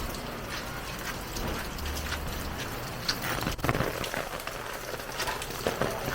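Heavy rain falling, with many irregular drips and taps on nearby surfaces; a cluster of louder taps comes about three and a half seconds in.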